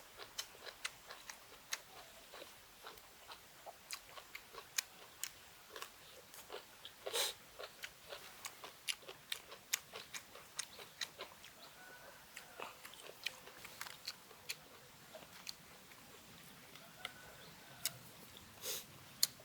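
A person chewing and biting food close to the microphone: irregular wet clicks and crunches, with a louder bite about seven seconds in.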